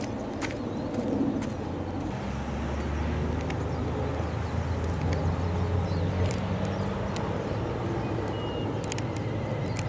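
Low, steady engine drone from a passing motor, strongest for a few seconds in the first half, with scattered sharp clicks and a short high whistle near the end.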